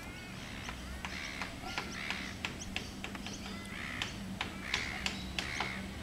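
Birds calling outdoors: a series of short arched calls, with a scatter of sharp irregular clicks over a steady low hum.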